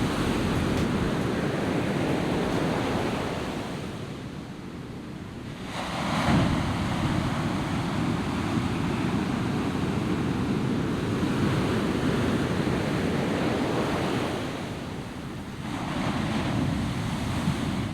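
Ocean surf washing onto a beach, swelling as a wave breaks about six seconds in and again near the end.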